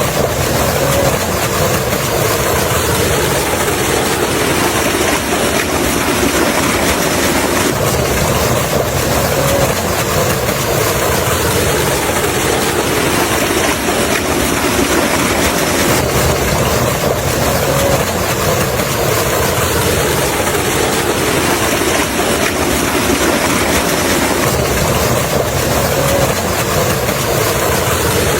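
A small motor running steadily and loudly, without a break.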